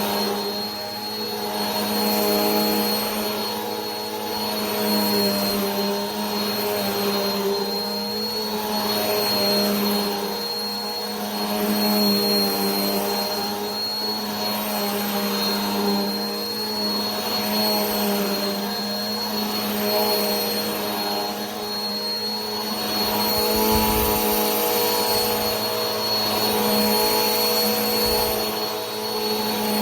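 Vacuum cleaner running continuously: a steady motor hum with a thin high whine above it, swelling and easing in loudness about every two seconds.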